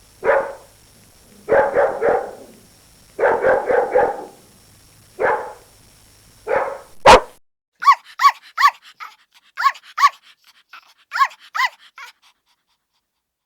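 A dog barking in volleys of quick, rapid barks. About seven seconds in there is a sharp click, then a string of short, high-pitched yelps, each sliding down in pitch.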